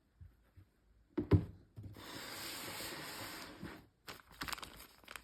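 Brand-new Nike Air Jordan 1 sneakers being handled: two sharp knocks, then about two seconds of steady rubbing, then a run of crackling near the end.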